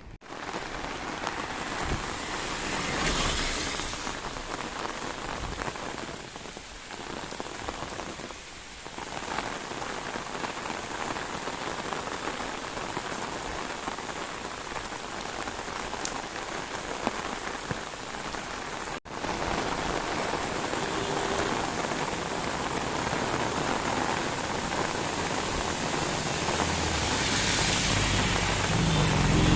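Steady heavy rain falling, an even hiss of drops, with a sudden break about two-thirds through. A low hum grows louder near the end.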